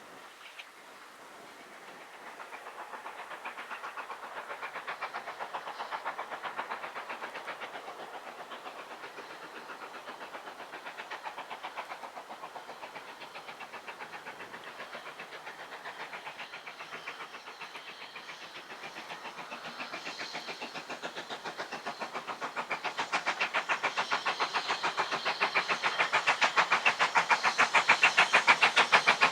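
Train approaching on the line, a fast, even run of beats growing louder towards the end.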